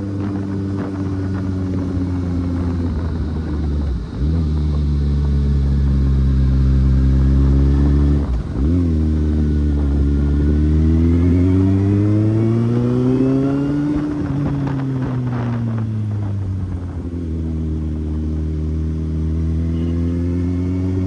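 Kawasaki Z800's inline-four engine under way, shifting up twice, about four and eight and a half seconds in. The revs then climb steadily, ease back down and settle into a steady cruise.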